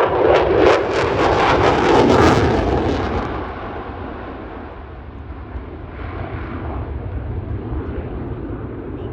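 Lockheed Martin F-22 Raptor's twin jet engines in a loud pass, with a rough, crackling rasp for the first three seconds. The noise then fades away to a lower rumble as the jet moves off.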